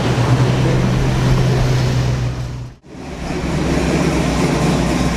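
Car engines running steadily. The sound breaks off abruptly about three seconds in and returns as a lower, rougher engine hum.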